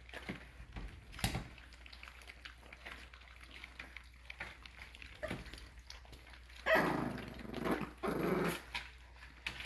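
American bully puppies growling, in two bursts in the second half, with a few light clicks earlier.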